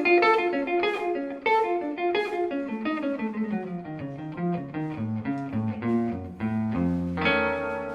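Jazz guitar playing a run of plucked single notes that steps downward, settling on a held chord about seven seconds in.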